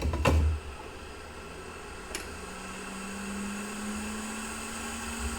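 Steady hum and fan-like whir of bench equipment, with a couple of knocks near the start and a faint low tone that starts about two seconds in and rises slightly.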